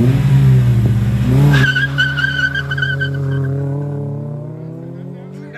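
Race car accelerating hard down a drag strip, with a steady high tyre squeal from about one and a half seconds in that lasts two seconds. The engine note then fades as the car pulls away.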